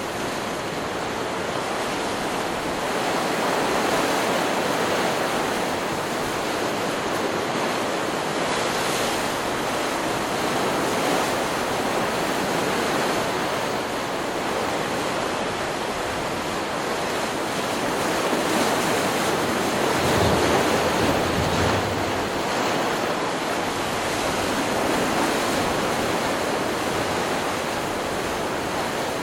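Ocean surf: waves breaking and washing up a beach in a continuous rushing wash that swells and eases every several seconds, with the biggest swell and a brief low rumble about two-thirds of the way through.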